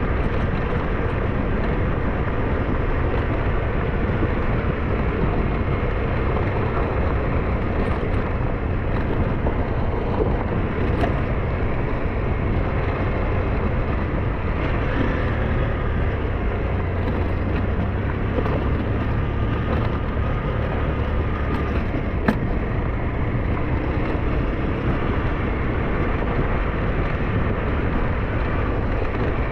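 SYM NH T 200 motorcycle's single-cylinder engine running steadily while riding, with a constant low rumble. One sharp click about twenty-two seconds in.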